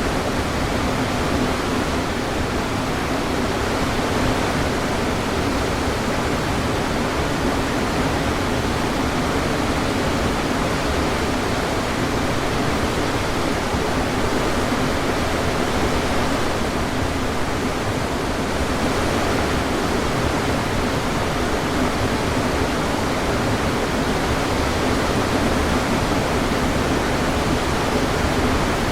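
Waterfall: a steady, full rush of falling water pouring without a break.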